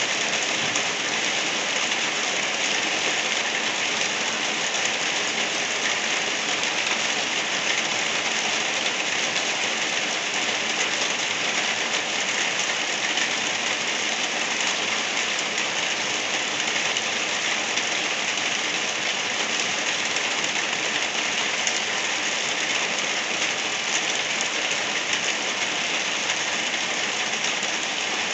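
Light rain falling steadily, an even, unbroken hiss with no single drops or other events standing out.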